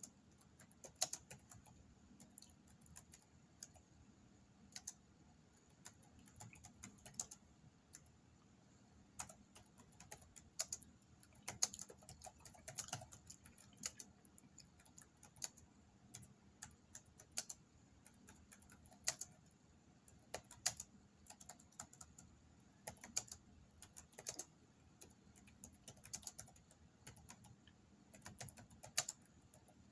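Popcorn being eaten: faint, irregular crunches and small clicks of chewing, with a few sharper ones now and then.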